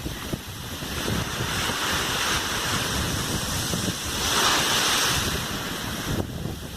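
Ocean surf washing onto a beach, with wind buffeting the microphone; a wave comes in louder about four seconds in.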